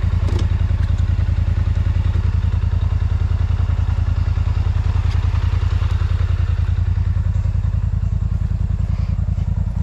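Polaris Sportsman ATV engine running steadily, an even low pulsing with no change in speed.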